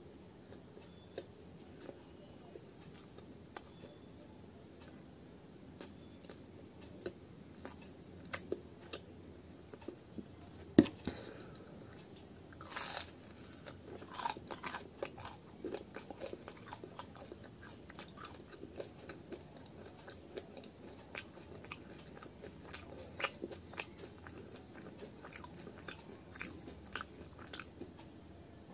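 Close-up sounds of someone biting and chewing fried muli ki kachori (radish-stuffed fried snacks), with scattered crisp crunches and clicks throughout. One louder sharp click comes about eleven seconds in.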